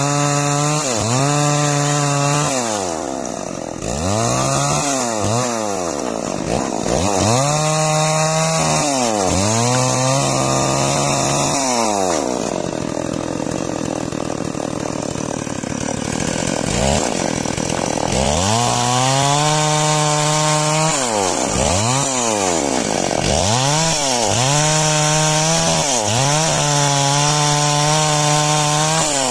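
Two-stroke chainsaw sawing timber into beams, its engine revving up and dropping back again and again, every second or two. Through the middle the pitch sags lower for several seconds, as under load in the cut.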